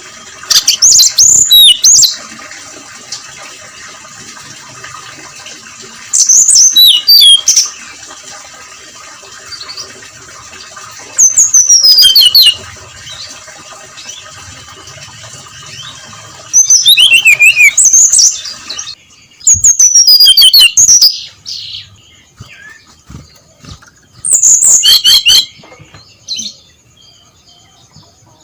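Brown-chested jungle flycatcher singing: six loud song phrases, each a second or two of quick whistled notes sliding down in pitch, with pauses of a few seconds between.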